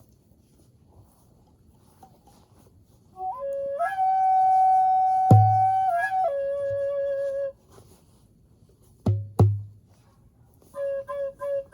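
Native American flute playing a slow improvised phrase of long held notes, stepping up to a higher note and back down, with single deep djembe bass strikes. After a pause, two quick djembe strikes come, and then the flute returns with short notes near the end.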